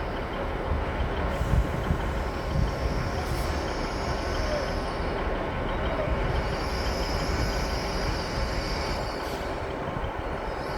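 Passenger train running into a station platform: a steady low rumble of the train with a faint hiss above it.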